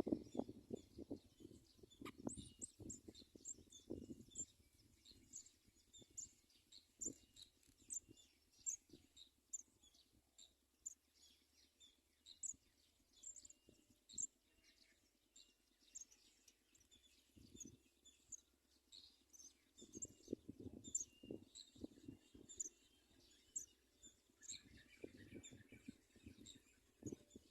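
Faint, rapid high chirping from house sparrows, many short notes running throughout. Soft low knocks and rustles come now and then, clustered about two-thirds of the way in.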